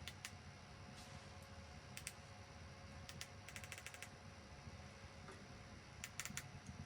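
Faint, scattered light clicks and taps, a few in quick runs of five or six, over a quiet low hum.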